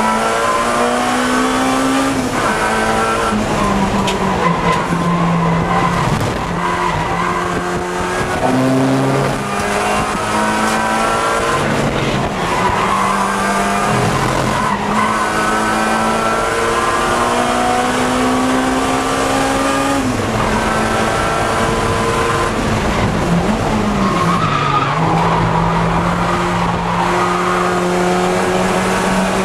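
Acura Integra Type R race car's four-cylinder engine under hard acceleration on track, the revs climbing and dropping again and again as it shifts up and down through the gears.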